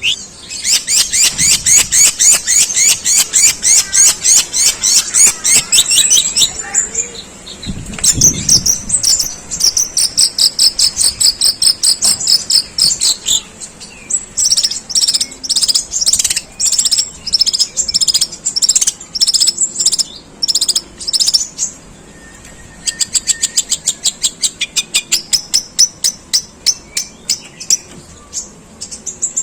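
Long-tailed shrike (pentet) singing long, harsh runs of rapid repeated chattering notes in imitation of Eurasian tree sparrows ("gerejaan"), the runs broken by a few short pauses.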